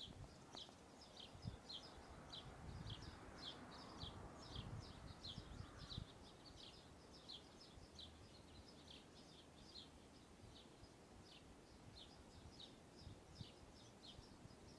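Faint small bird chirping over and over, short high chirps at about two or three a second. A soft low rumble sits under it for the first few seconds.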